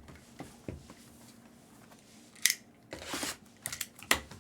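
Trading card packaging being handled and opened: a run of sharp clicks and taps, with a short rustle of tearing or crinkling wrapper about three seconds in.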